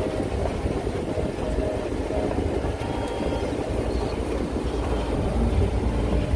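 Steady low rumble of a moving tourist train.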